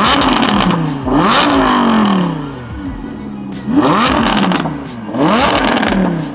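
A car engine revved hard four times in two pairs, each rev rising sharply in pitch and then falling back to idle.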